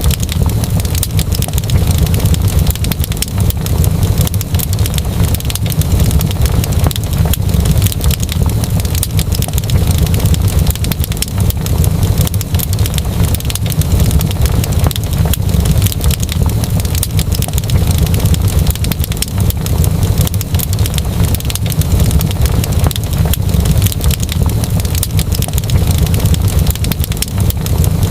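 Wood fire in a fireplace crackling continuously, a dense stream of small pops and snaps over a steady low rumble.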